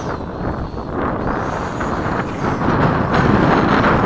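Wind buffeting the microphone in a loud, steady rumble. Underneath it, a small electric RC plane's motor and propeller whine faintly, high-pitched, dipping and rising in pitch near the start.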